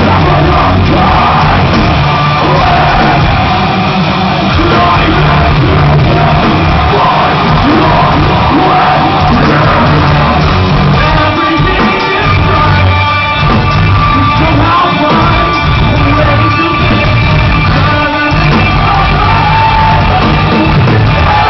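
Live rock band playing loudly in a large hall, with vocals over driving drums and bass.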